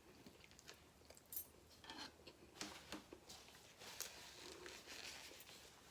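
Faint chewing and mouth sounds from someone eating a burger, with a few soft crunches and clicks scattered through near silence.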